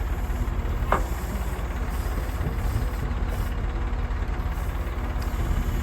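Diesel engine of heavy machinery idling steadily, with a short sharp knock about a second in.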